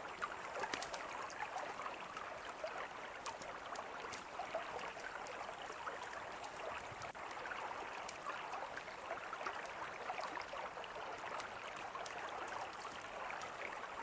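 A mountain river flowing with a steady babble, and a campfire crackling and popping over it in sharp, scattered clicks.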